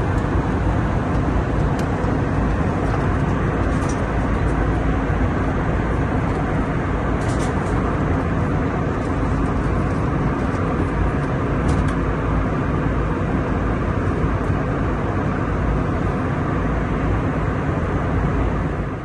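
Steady roar of a passenger jet in flight heard inside the cabin, engines and rushing air, with a few faint clicks.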